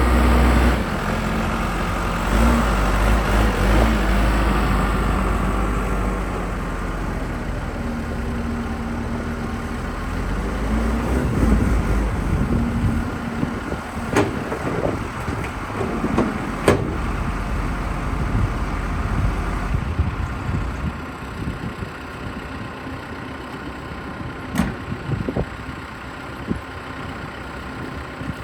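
Case 580 Super L backhoe's four-cylinder diesel engine running, heavy with a whine for the first several seconds, then settling to a quieter steady run, with a few sharp knocks in the middle.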